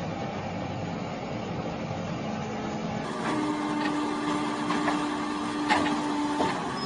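Machinery running with a steady rumbling noise. About three seconds in the sound changes to a steady two-note whine with scattered clicks and knocks.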